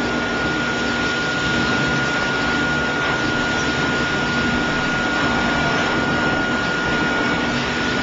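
Pet blow dryer running steadily, a rushing of air with a constant high whine from its motor.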